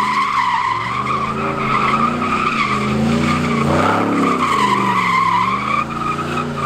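A car doing donuts or a burnout: its engine revving up and down while its tyres squeal continuously.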